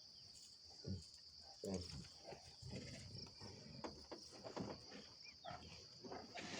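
Insects droning steadily at one high pitch, with faint short knocks and soft low calls scattered through.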